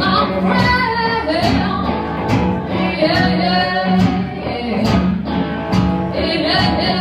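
Live blues band playing: a voice singing over guitar, with drum hits keeping a steady beat.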